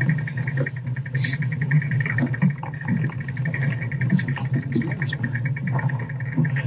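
Fat bike rolling along a dirt trail: a steady low tyre hum with a fast, high ticking running over it.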